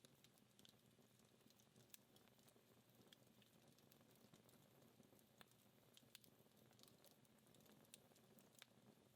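Faint, sparse crackles and sharp pops from a dying wood fire burning down, scattered a second or so apart over a soft hiss.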